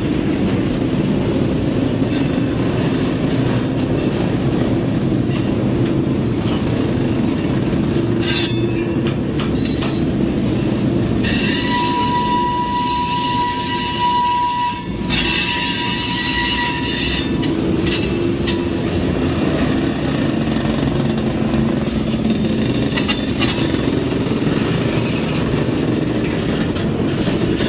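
Freight train's covered hopper cars rolling past close by, a steady rumble of wheels on rail. For about five seconds around the middle, a high-pitched wheel squeal rises over it.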